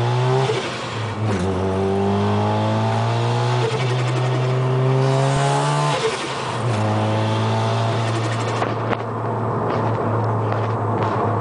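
Mazda RX-7 FD3S's single-turbo 13B twin-rotor rotary engine under hard acceleration. Its pitch climbs steadily and drops sharply at two upshifts, about a second in and about six seconds in.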